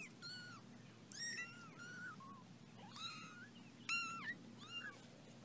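Young kittens mewing: a string of faint, high-pitched mews, each rising and falling in pitch, about one a second.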